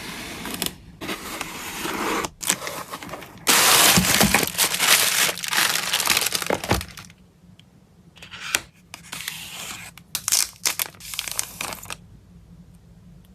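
Packaging being handled to pack photocards, with crinkling, rustling and tearing. It is loudest and densest about four to seven seconds in, then comes in shorter crinkles and stops about twelve seconds in.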